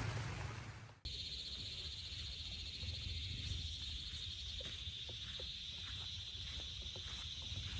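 Rain noise fades out in the first second and then stops. After it comes a steady, high-pitched, finely pulsing chorus of calling insects, with scattered light water drips.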